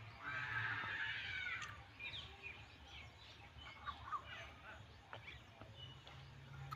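Small birds chirping and calling, with many short chirps throughout and a denser flurry of calls in the first second or two, over a low, steady background hum.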